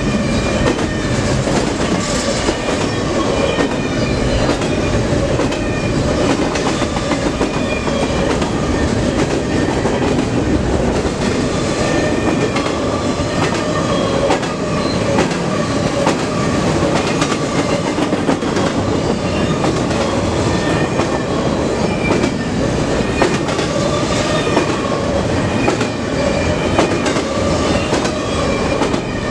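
Double-stack intermodal container train passing at speed: the steady rumble and clatter of the well cars' steel wheels on the rails, with faint wavering squeal tones from the wheels.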